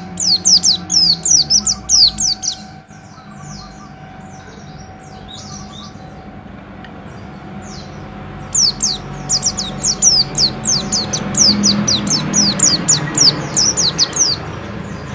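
A white-eye (pleci) singing a rapid run of high, falling whistled notes. It stops after about two and a half seconds, gives only faint scattered notes for several seconds, then sings a second fast run of about six seconds.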